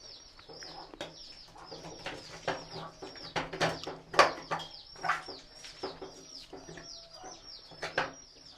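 Birds chirping over and over in quick falling chirps, with several sharp knocks, the loudest about four seconds in.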